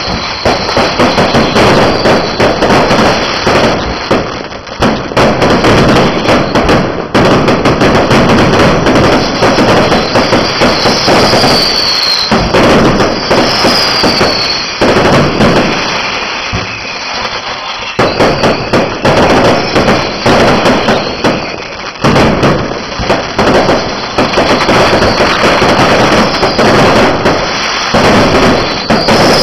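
Fireworks going off in a dense, continuous barrage of bangs and crackle, easing briefly about halfway through. Short falling whistles cut through now and then.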